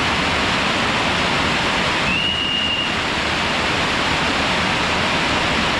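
Waterfall pouring, a loud, steady rush of falling water. About two seconds in, a short, thin high tone rises slightly and then holds for under a second.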